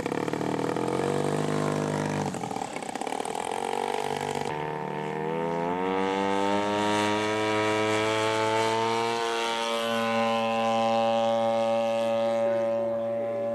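Radio-controlled scale model airplane engine running: its pitch drops briefly, then climbs for several seconds as it is throttled up, and holds steady at high revs.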